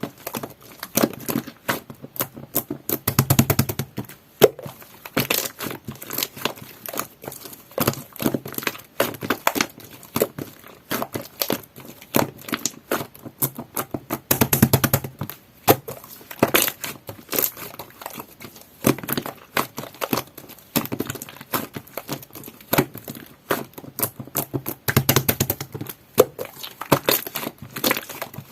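Coral slime mixed with shaving foam being kneaded and stretched by hand: dense, irregular crackling, popping and squishing. Louder spells come about three, fifteen and twenty-five seconds in.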